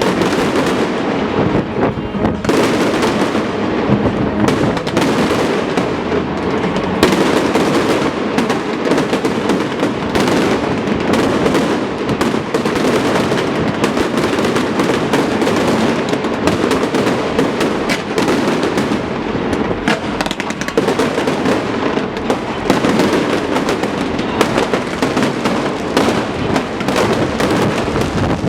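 Fireworks display in a dense, continuous barrage: many bursts and crackles overlapping with no break.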